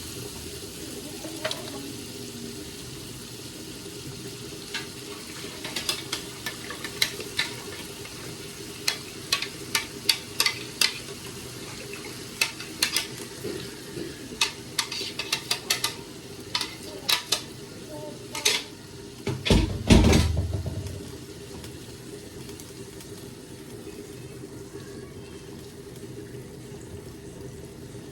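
A spoon clinking and knocking against a cooking pot as chicken is stirred, over a steady background hiss of the food cooking. A heavier clatter comes about twenty seconds in, then only the hiss.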